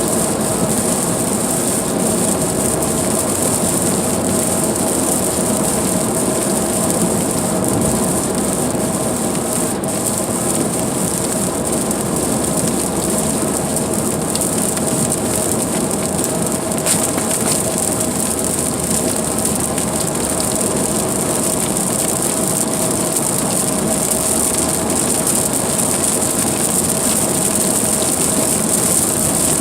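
Steady road noise inside a car driving through heavy rain, with tyre hiss on the wet road and rain on the car.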